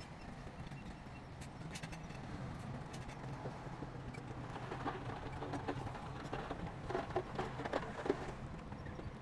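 Shantui crawler bulldozer's diesel engine running steadily under load. From about halfway through there is a run of irregular metallic clanks and knocks from the working machine.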